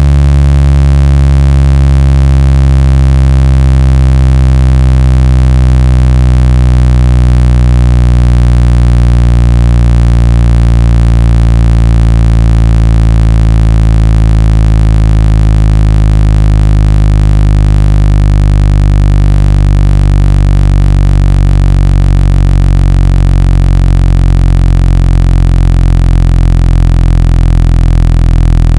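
Synthesized low buzzing tone for clearing water and dust from a phone speaker. It plays loud and unbroken, rich in overtones, and drifts slowly down in pitch.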